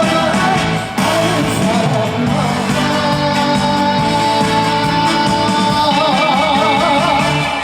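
Live trot music from a band amplified over a stage PA, with a voice singing long notes with a wide vibrato.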